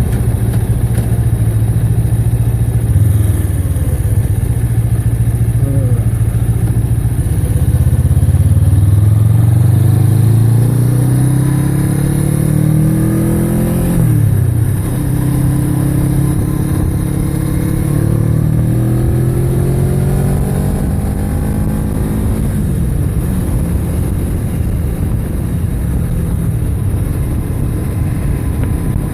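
Motorcycle engine heard from the saddle, pulling up through the revs. The pitch drops sharply about halfway through as it shifts up a gear, then climbs again and settles to a steady cruise, with wind rush throughout.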